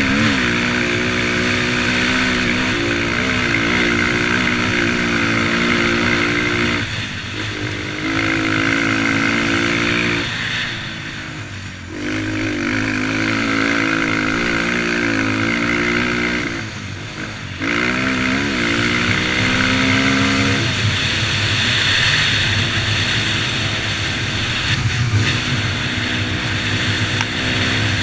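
Motocross dirt bike engine running hard, its pitch rising and falling with the throttle. It eases off briefly three times, then rises again.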